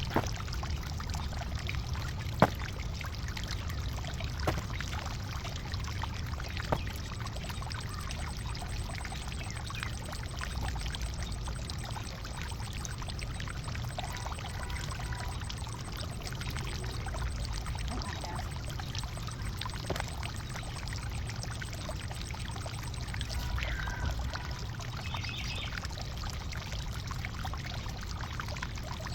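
Garden digging: four sharp knocks of a digging tool in the first seven seconds over a steady rushing noise.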